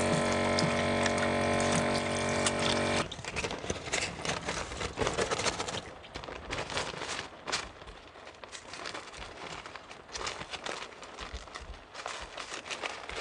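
Small electric water pump of a portable camping sink running with a steady buzz while water pours, cutting off about three seconds in. Water splashing follows, then scattered small clicks and handling knocks.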